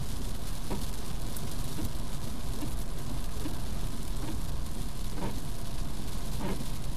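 Heavy rain drumming steadily on a moving car's roof and windscreen, over the car's low road rumble, heard from inside the cabin.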